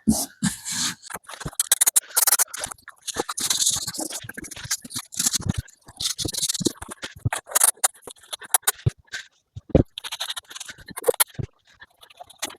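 Scraping, rubbing and irregular knocks from carpet insulation tiles being handled and pressed into place on a boat's cabin lining, with several short hissing bursts of spray contact adhesive.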